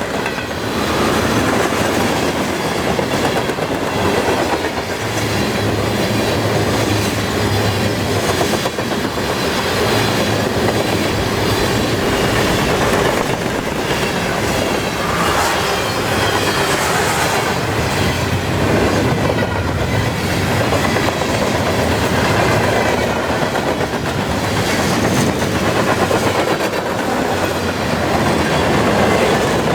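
Long freight train rolling past at speed, its wheels clicking steadily over the rail joints in a continuous clickety-clack.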